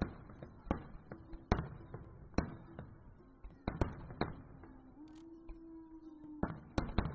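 Distant aerial firework shells bursting: about ten sharp bangs at irregular intervals, with a pause of about two seconds before a quick cluster near the end.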